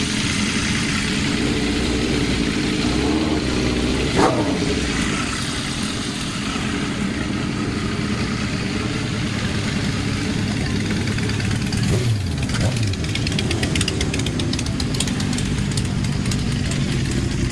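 Motorcycle engines idling and revving, with a short sharp rev about four seconds in and another about twelve seconds in.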